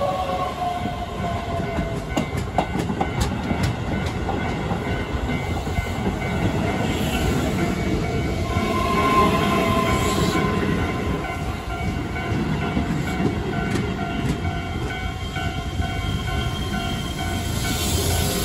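Keihan electric commuter train rolling slowly past: a steady rumble of wheels on rail, with sharp clicks as the wheels cross rail joints and a brief motor whine partway through.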